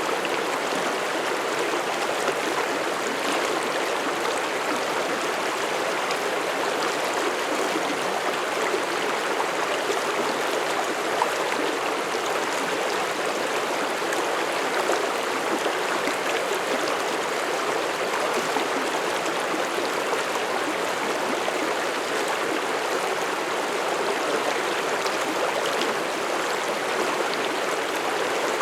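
Forest mountain stream flowing over rocks: a steady rush and babble of water.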